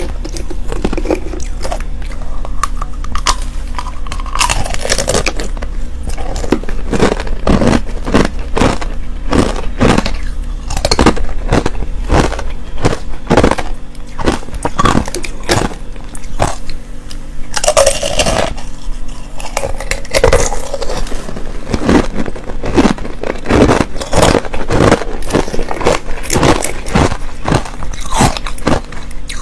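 Close-miked crunching of clear and powdery crushed ice being bitten and chewed, a quick irregular run of sharp crunches, several a second.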